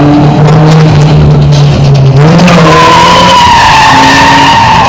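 Drift car engine running hard at high revs, its note rising about two seconds in, then a loud high tire squeal that holds steady as the car slides sideways through the corner.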